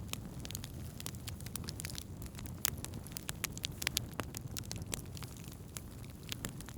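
Wood campfire burning: a steady low rumble of the flames with irregular crackles and sharp pops of burning wood, a few louder pops in the middle.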